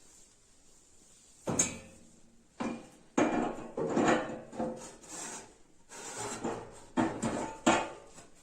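A heat exchanger being worked into place inside a fireplace stove's firebox: irregular scraping and rubbing with several sharp knocks, starting about a second and a half in.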